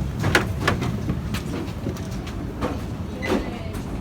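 Düwag M8C articulated tram running along the track: a steady low rumble with frequent sharp clicks and rattles.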